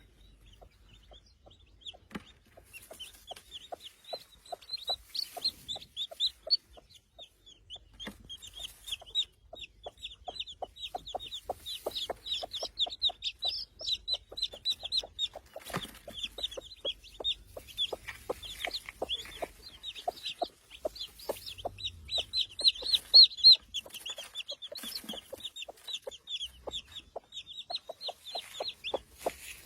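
A broody hen clucking softly in a steady series of short low clucks. Many high-pitched chick peeps run over it from a couple of seconds in.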